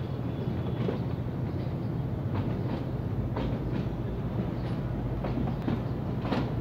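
Empty rake of Chinese-built passenger coaches rolling past, a steady rumble with the wheels clacking over rail joints at irregular intervals.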